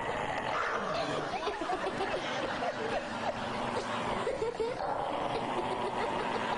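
A dog growling and grumbling without a break, mixed with many short high whines that rise and fall.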